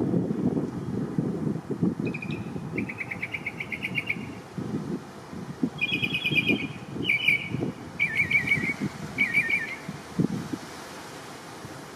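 A bird calling in short, rapid trilled phrases, five or six bursts of a second or less each, over a gusty low rumble of wind on the microphone.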